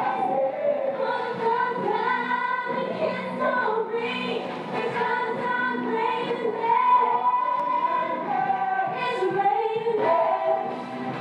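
Music with female voices singing, several voices together.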